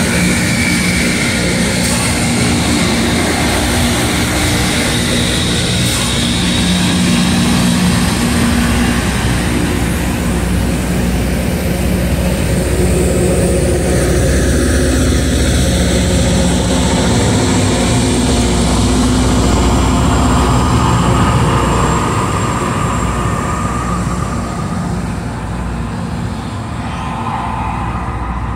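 Freight train with diesel locomotives passing: a steady, loud engine rumble with held low tones, fading over the last few seconds.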